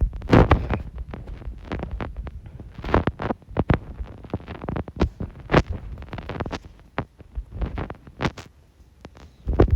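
A string of irregular dull thumps and knocks over a low rumble, with some sharper clicks among them. They are loudest near the start and again near the end.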